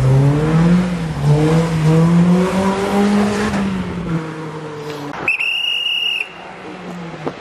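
Rally car engine revving hard as it drives a stage, its pitch climbing and dropping through gear changes, then fading away. About five seconds in comes a short, steady high-pitched squeal lasting under a second.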